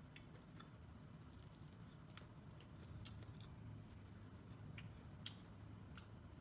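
Faint, crisp clicks of teeth biting kernels off a cooked corn cob and chewing them, irregularly spaced, the sharpest about five seconds in, over a low steady room hum.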